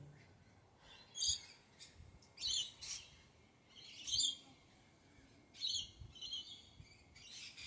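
Small birds chirping: about six short bursts of quick, high notes.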